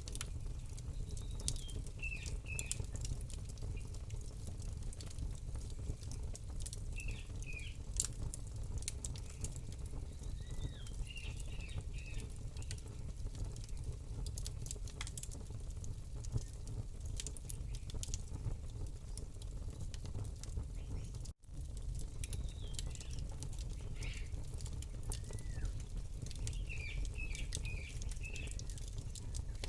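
Campfire crackling with sharp irregular pops over a steady low rumble, while small birds chirp in short repeated phrases every few seconds. The sound cuts out for a moment about two-thirds of the way through.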